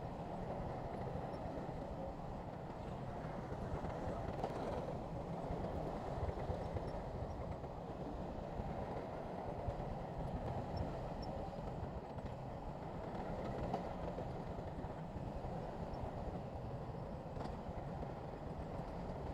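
Heavy diesel earthmoving machinery running steadily: a continuous low engine rumble with a few faint knocks.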